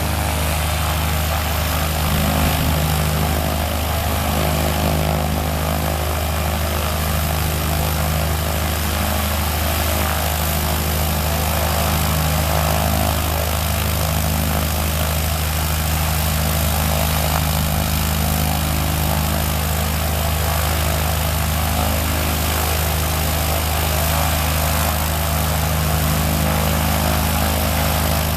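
Van's RV-10 light aircraft's piston engine and propeller running steadily at low power on the ground, a constant low drone with no change in speed.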